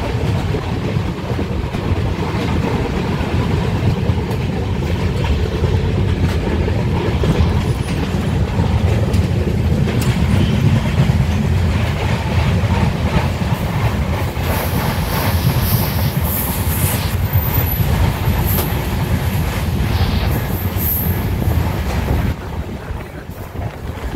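Passenger train running fast, heard from an open coach doorway: a heavy rumble of wheels on the rails with a rapid clickety-clack. A high-pitched hiss joins in for several seconds in the middle, and the sound drops noticeably a couple of seconds before the end.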